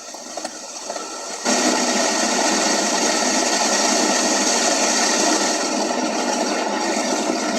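Steady rush of pouring water from an outflow that the boy calls raw sewage, starting abruptly about a second and a half in.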